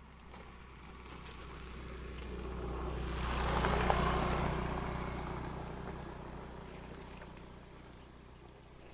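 A motor vehicle passes by, growing louder to a peak about four seconds in and then fading away, over a steady low hum.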